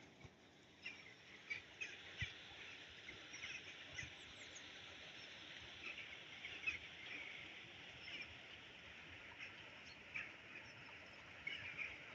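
Faint birdsong: many short chirps from several birds over a soft outdoor hiss, with a few light clicks.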